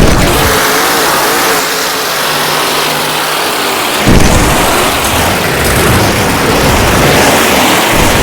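Monster truck engine running and revving, its pitch wavering, with a sudden loud surge at the start and another about four seconds in.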